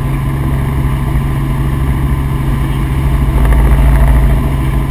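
Helicopter in flight heard from aboard: a steady drone of engine and rotor. A low rumble swells louder for about a second a little past halfway.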